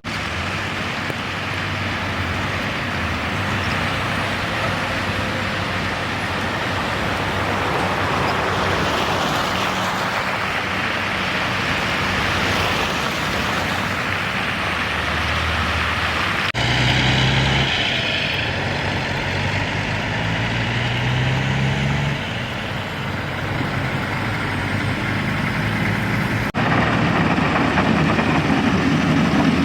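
Road traffic in heavy wet snow: a steady hiss of tyres and engines, then, after two abrupt changes, the steady low drone of idling or slow-moving truck and car engines, louder near the end.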